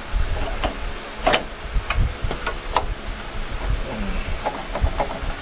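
Irregular clicks and knocks of tools and sheet-metal body panels being handled and tapped, some with a short metallic ring, over a low rumble.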